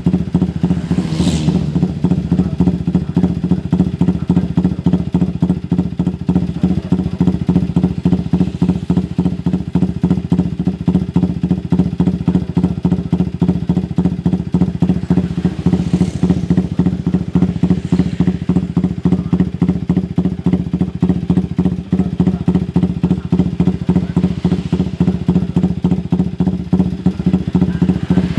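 Motorcycle engine idling steadily through an aftermarket RPL exhaust, a fast, even pulsing exhaust note.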